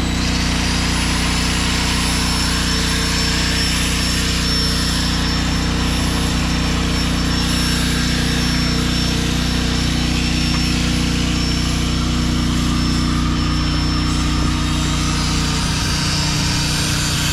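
A loud engine running steadily at a constant speed; its low hum breaks up about sixteen seconds in.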